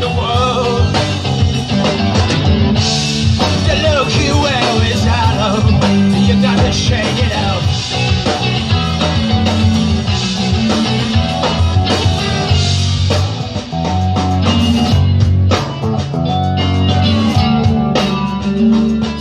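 Live rock band playing a song: electric guitar and bass over drums, with pitch-bending melodic lines.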